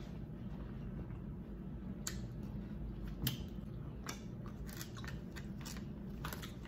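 Close-miked eating sounds: chewing and finger-licking over a low steady hum, with scattered sharp clicks and snaps that come more often in the second half as a boiled crab leg is cracked apart.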